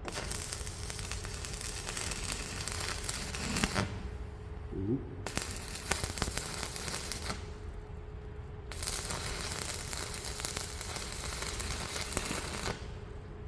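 Stick (MMA) arc welding: the arc crackles and sizzles in three runs, each a few seconds long, stopping briefly between them. A faint steady hum runs underneath.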